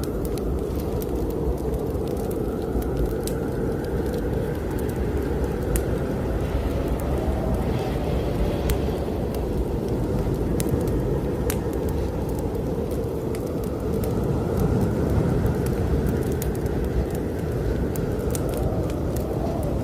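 Blizzard wind blowing steadily with a deep rumble, gusts swelling and fading every few seconds, over the scattered pops and crackles of a wood fire burning in a fireplace.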